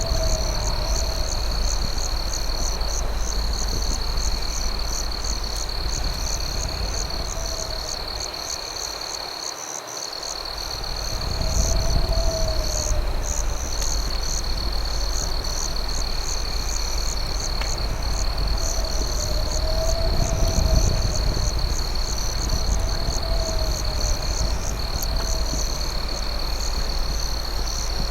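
Night chorus of crickets trilling: one steady high trill and a faster pulsing chirp above it. Short lower calls, likely frogs, recur every few seconds over a low rumble that fades briefly about ten seconds in.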